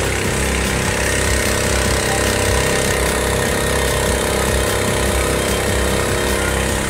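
A motor running steadily at an even speed.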